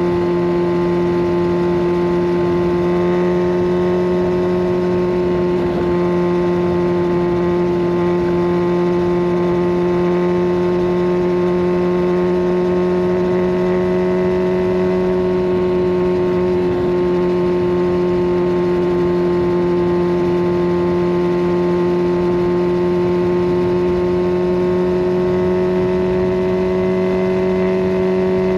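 Kawasaki Ninja 1000SX inline-four running through a de-catted Scorpion Red Power exhaust, holding a steady cruise with the engine note rising only slightly toward the end.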